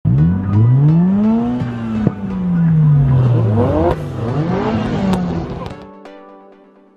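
A car engine revving: the pitch climbs and falls slowly once, then several quicker revs follow. Near the end a held chord of steady tones fades out.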